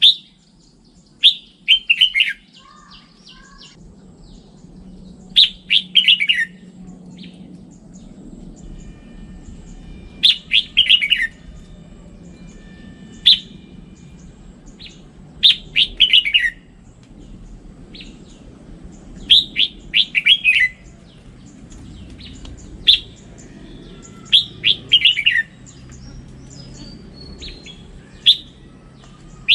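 Red-whiskered bulbul singing: short phrases of quick, falling whistled notes, repeated every few seconds.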